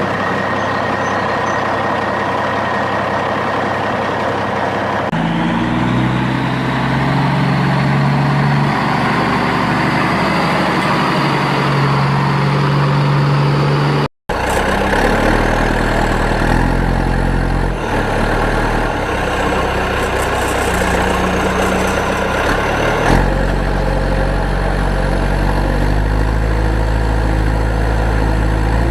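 Heavy truck or digger engine running steadily, as a cartoon sound effect, with low notes that shift in steps and a brief total dropout about halfway through.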